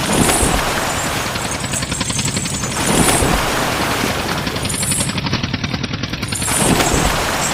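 Engine sound of a tractor-type vehicle chugging with a fast, even rattle. It swells louder three times: at the start, about three seconds in, and near the end.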